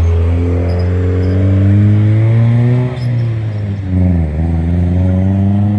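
Car engine under throttle, its pitch climbing steadily, falling sharply about three seconds in, dipping briefly again a second later, then climbing once more.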